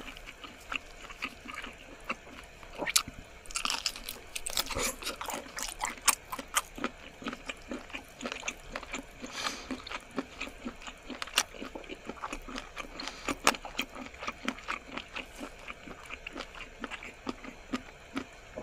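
A woman chewing squid in a mukbang: a steady run of small mouth clicks and smacks, several a second.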